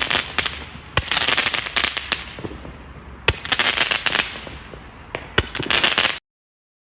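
Fireworks going off: three sharp bangs, each followed by about a second of dense crackling, then the sound cuts off abruptly about six seconds in.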